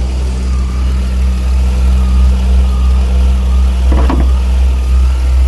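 2000 Ford Windstar's 3.8-litre V6 idling steadily under the open hood, running lean and misfiring on cylinder 3, as if it had an intake leak. A short click about four seconds in.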